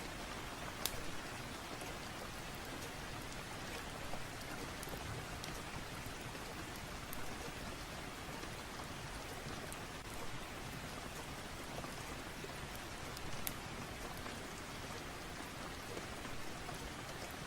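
Steady rain falling, an even hiss, with a few brief sharp clicks or crackles scattered through it.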